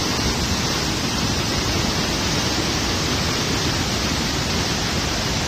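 Storm noise: a steady, even rush with no let-up.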